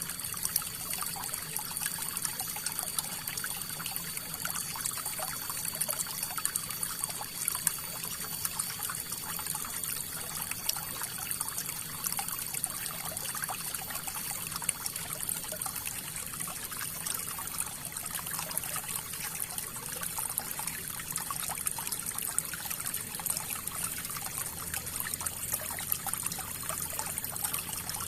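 River water flowing and trickling over rocks, a steady splashing rush with no pauses.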